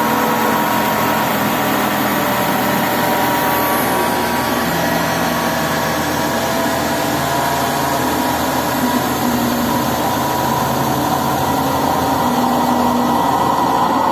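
CNC metal-spinning lathe running steadily while its roller forms 3 mm stainless steel sheet, a continuous loud machine noise with steady tones that shift in pitch every few seconds.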